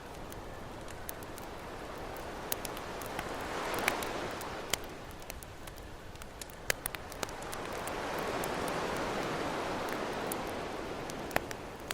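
Ocean waves washing in twice, each a slow swell of surf noise that rises and fades, while a campfire crackles with sharp pops and snaps throughout.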